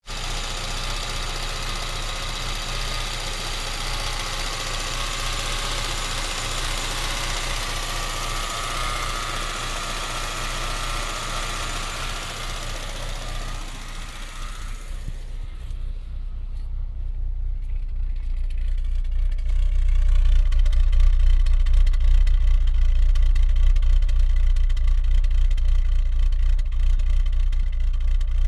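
Citroën Xantia Activa TCT's turbocharged petrol engine idling slightly rough, still unsmooth after a new temperature sensor and ignition amplifier module. About halfway through, the high-pitched whine and hiss fade and a deeper, louder low running note takes over.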